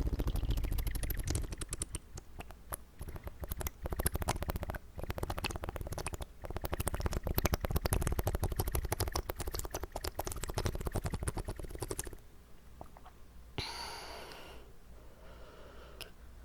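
Close-up wet mouth sounds: a rapid, dense run of clicks and smacks for about twelve seconds, then quieter, with a short breathy rush near the end.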